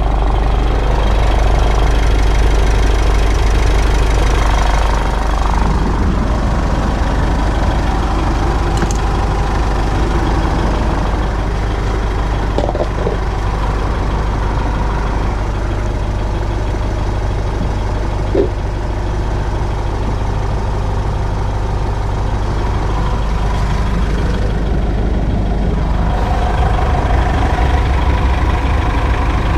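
Mitsubishi 4D56 four-cylinder turbo-diesel engine idling steadily, freshly filled with oil and left running to check for oil leaks.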